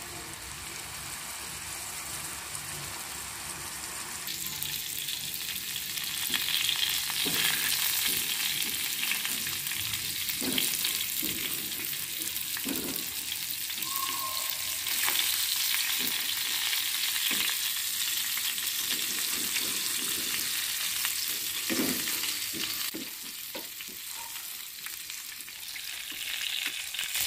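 Minced-mutton kababs shallow-frying in oil on a tawa: a steady sizzle that grows louder about four seconds in. A utensil knocks and scrapes against the pan now and then.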